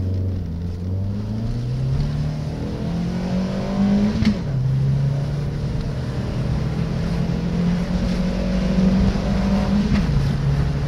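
A 200 hp SEAT Ibiza's engine, heard from inside the cabin, pulling hard under acceleration. The revs climb steadily, fall sharply about four seconds in as it shifts up a gear, then climb again and fall once more near the end at the next upshift.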